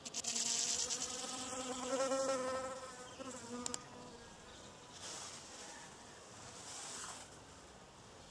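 A bee buzzing close to the microphone as it flies past, its pitch wavering, loud for about four seconds and then fading. Two fainter swells of hiss follow.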